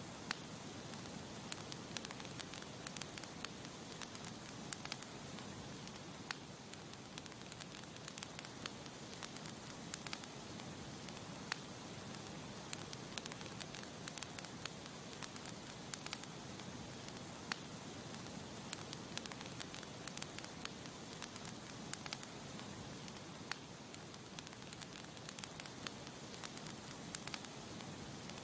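Campfire burning with a steady hiss and frequent irregular sharp crackles and pops from the wood.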